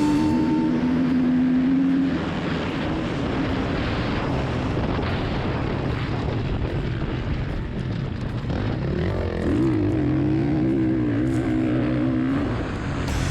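Off-road dirt bike engine running under load, its pitch rising and falling as it revs up and down. It is louder again near the end.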